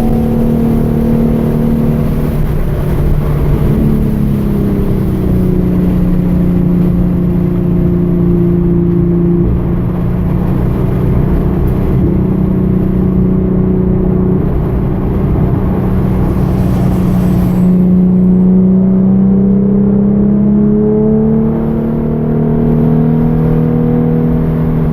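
The 3.8-litre V6 of a Hyundai Genesis Coupe running under load on a lap. Its pitch drops about two seconds in, holds steady, climbs gradually through the gears' revs from about sixteen seconds in, and eases off near the end.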